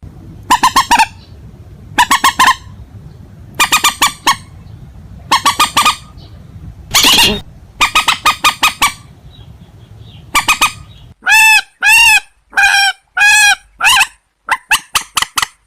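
Loud harsh honking calls of rails (purple swamphen and white-breasted waterhen): quick bursts of several notes every second or two. In the second half they become a string of separate, single notes before a rapid burst near the end.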